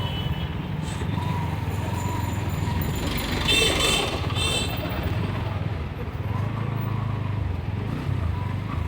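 Motorcycle engine running steadily while riding on the road. About halfway through, two short high-pitched beeps sound in quick succession.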